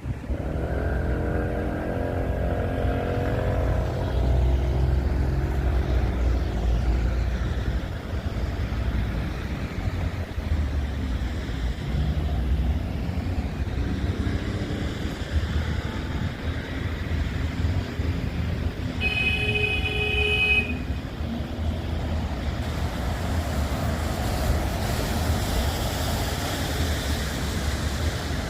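Street traffic: a motor vehicle's engine passes close by in the first few seconds over steady road noise, and a short horn toot sounds about nineteen seconds in, lasting a second and a half.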